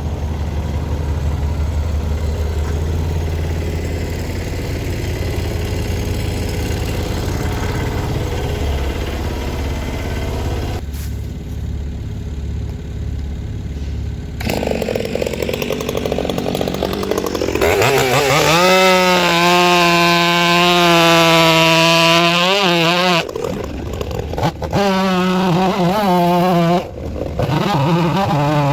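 A machine engine rumbles steadily, then about halfway through a two-stroke chainsaw revs up to full throttle and holds a high, wavering note as it cuts, dropping off briefly twice near the end.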